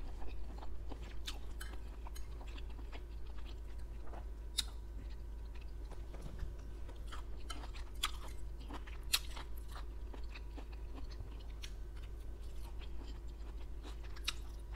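A person chewing and biting into a forkful of beef and broccoli, with small crunches and scattered sharp clicks.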